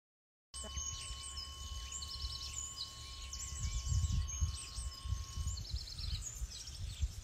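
Birds chirping and singing outdoors, over a low wind rumble on the microphone that swells about four seconds in. A faint steady high tone rings underneath and stops about five and a half seconds in.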